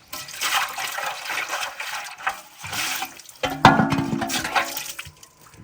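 Water pouring and splashing, with a short, loud pitched sound about three and a half seconds in.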